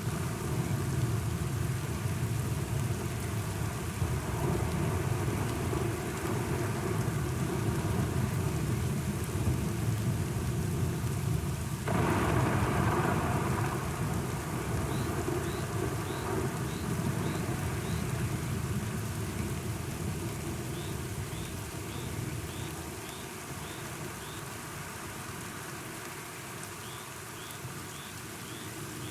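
Thunderstorm: steady rain with low rolling thunder, and a sudden louder clap about twelve seconds in that rumbles away and eases off. Faint rows of short high chirps come through the rain in the second half.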